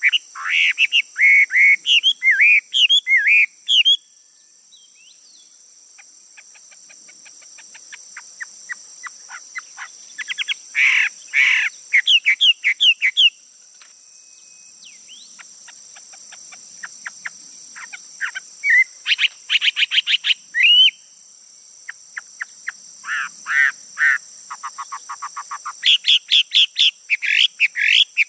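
A male songbird singing in loud bursts of quick chirps and rapid trills, phrase after phrase with short pauses between them, over a steady high-pitched hiss.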